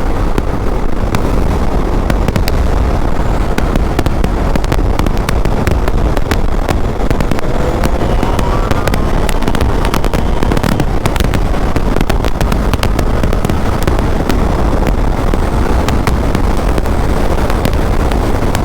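Wind rumbling and crackling against the microphone of a motorcycle riding at highway speed, with a brief rising whine about eight seconds in.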